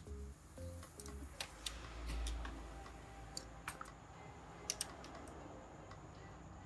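Light, irregular clicks and taps of small hand tools and parts being handled on a workbench.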